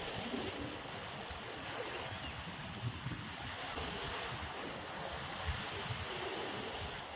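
Steady wash of sea surf with wind buffeting the microphone.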